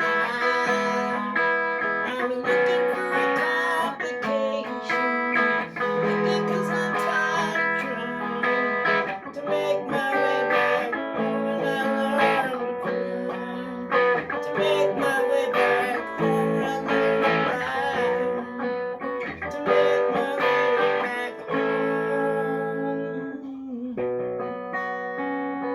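Guitar music, with plucked notes and chords ringing on one after another.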